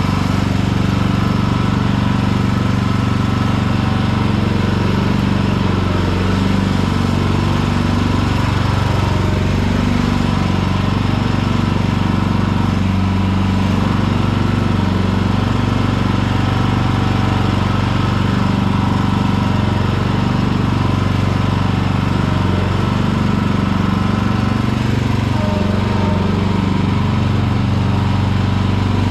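Hecht ride-on garden tractor mower running steadily, its engine hum held at a constant speed.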